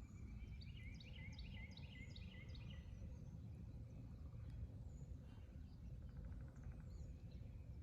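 A songbird singing a fast run of about ten repeated high notes, roughly four a second, over the first three seconds, followed by a few fainter scattered bird calls, over a faint low background rumble.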